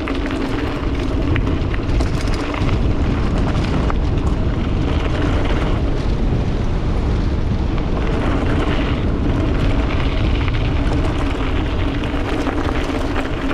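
GT Avalanche hardtail mountain bike ridden over a bumpy, rooty trail: continuous heavy rumble with tyre noise and many small rattling clicks from the bike.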